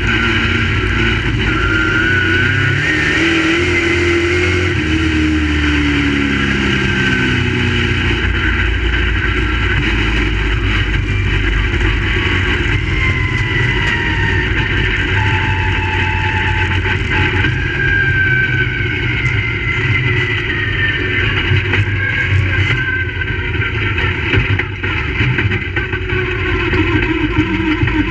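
Crate late model race cars' V8 engines running at speed, several at once, their pitch rising and falling as they accelerate and lift.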